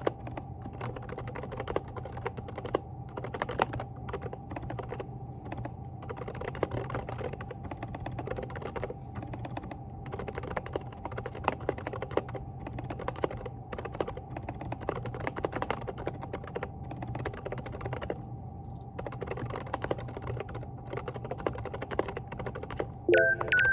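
Typing on a Groovestone GV10 mechanical keyboard with hand-lubed silent Coral switches: quick runs of soft key clicks with short pauses, over a steady low hum. A short stepped electronic tone sequence starts just at the end.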